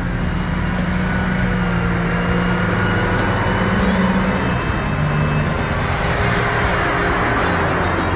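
Off-road vehicle engine running steadily, with background music underneath.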